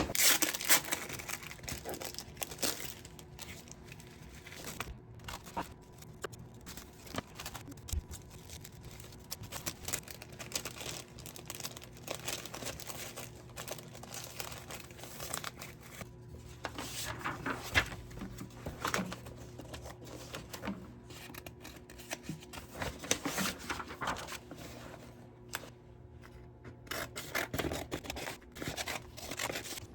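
Tissue paper rustling and crinkling in irregular bursts as it is handled and cut up into pieces.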